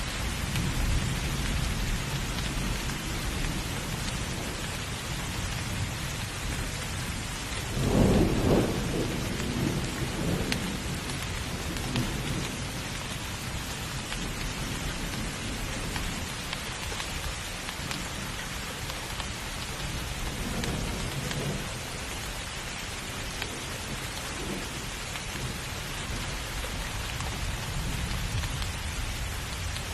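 Steady heavy rain with a thunderclap about eight seconds in, rumbling away over the next few seconds, and fainter rolls of thunder later on.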